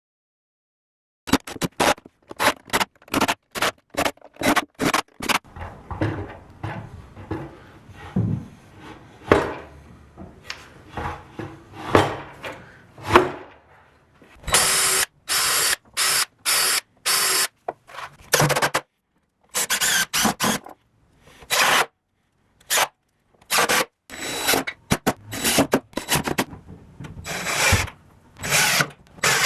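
Woodworking tool sounds on wood in many short, abruptly cut snippets: drilling, rubbing and sawing, with brief clean gaps between clips.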